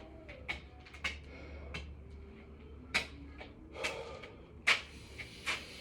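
Irregular thumps and knocks of hands and feet hitting the floor during six-count burpees, about one every second, with a hard breath near the middle.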